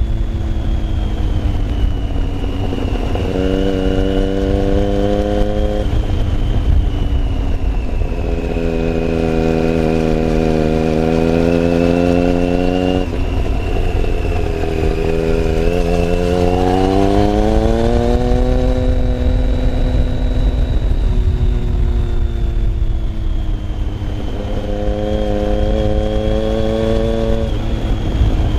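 Motorcycle engine heard from on board while riding, its pitch rising and falling with the throttle and gear changes, with a long climb in pitch about halfway through as it accelerates. Heavy wind noise on the microphone runs underneath.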